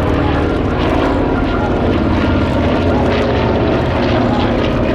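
Lockheed Super Constellation's four Curtiss-Wright R-3350 18-cylinder radial piston engines droning steadily and loudly as the airliner flies past.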